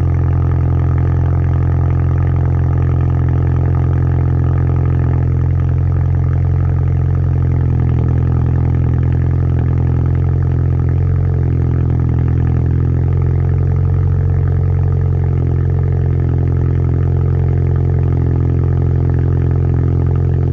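2014 Volkswagen Jetta's 1.8-litre turbo four-cylinder idling steadily just after a cold start through a straight-piped exhaust with the muffler removed: a loud, deep, even drone.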